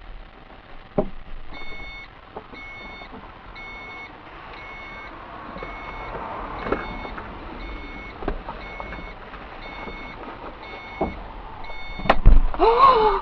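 Repeating electronic beeping, about three beeps every two seconds, over background traffic noise with a few knocks. Near the end a loud, sharp bang, followed by a short rising pitched sound.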